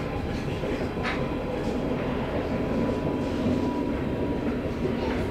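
Regional passenger train running at speed, heard from inside the carriage: a steady rumble of wheels on rails with a faint, steady high tone over it.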